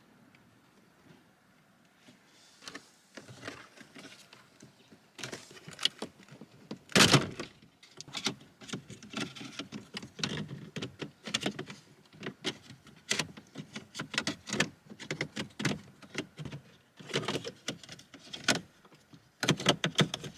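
Plastic dashboard trim on a Honda N-ONE being worked loose by hand: an irregular run of clicks, creaks and knocks as the panel and its clips are pried and pulled. The loudest knock comes about seven seconds in.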